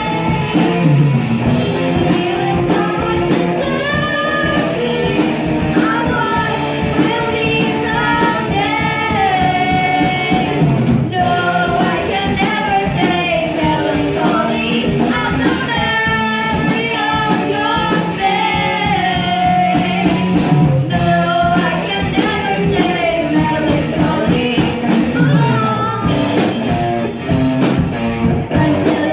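Hard rock song: a singer's voice over electric guitar, bass and drums, with the cymbals coming through more strongly near the end.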